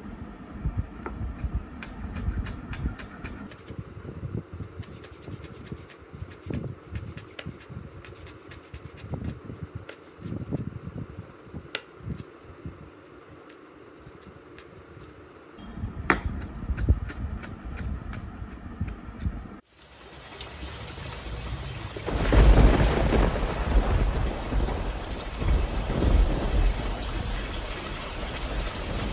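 Rain, with many drips and low thumps; then, after an abrupt change, steady rain with a long, loud rumble of thunder starting about two-thirds of the way through.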